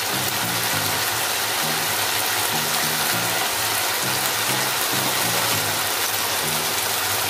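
Sliced onions and tomatoes sizzling steadily in hot oil in a kadai. Low background music notes run underneath.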